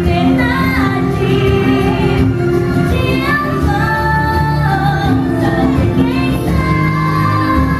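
A song with a woman's voice singing a melody over a steady musical accompaniment.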